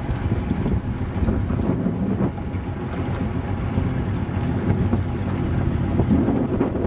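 Wind buffeting the microphone aboard a small boat under way in choppy water, a steady low rumble.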